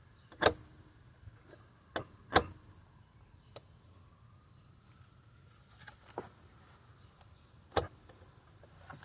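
Scattered sharp clinks and knocks, a few loud ones about half a second in, near two and a half seconds and near the end, with quieter ticks between.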